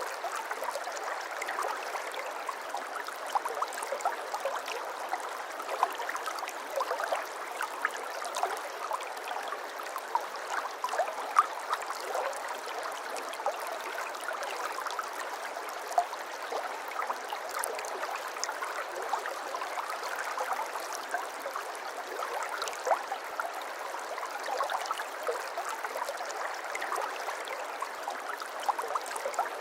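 Shallow stream water trickling and babbling over stones: a steady gurgle with many small splashes and drips.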